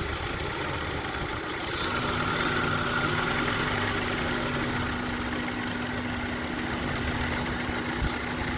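2002 Honda CR-V 2.4-litre four-cylinder engine idling; about two seconds in a steady pitched hum joins in and holds. The owner blames the car's rough idle on a faulty idle air control valve.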